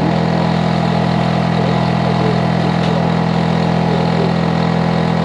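Hitachi air conditioner outdoor unit running, a loud steady hum with several low tones over a constant hiss from its compressor and fan.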